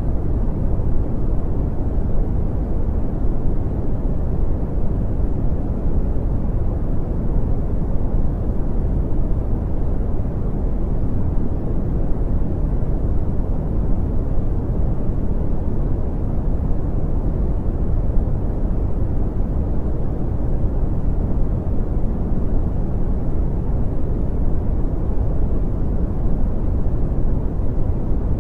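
Steady brown noise: a constant, even, deep rumbling hiss, with most of its energy at the bottom and little above the middle range.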